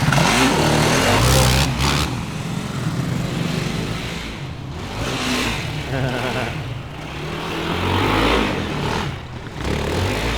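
ATV engine revving and easing off as it rides around, swelling louder and fading again several times.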